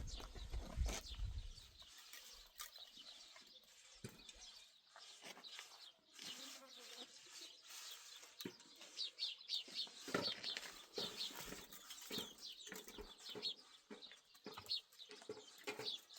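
Faint bird chirps in quick runs, busiest in the second half, with a few light knocks.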